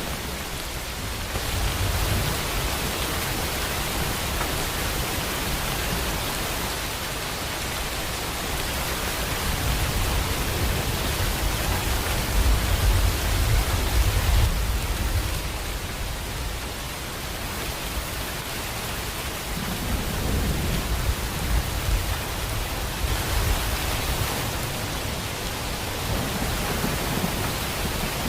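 Steady heavy rain with a low rumble of thunder swelling and fading twice, about halfway through and again past two-thirds of the way.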